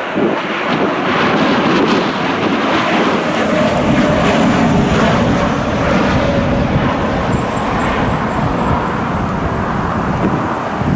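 Jet engines of an arriving United Boeing 737 airliner, a steady loud noise that swells from about two seconds in and eases a little near the end.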